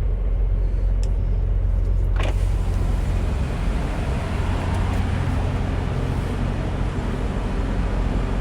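Semi truck's diesel engine running at low speed with a steady low rumble, heard from the cab while maneuvering. A brief falling squeak comes about two seconds in.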